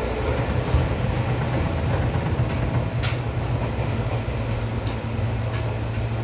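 Seibu Tamako Line electric train running, heard from inside the car: a steady low drone of motors and wheels on the rails, with a few sharp clicks from the track.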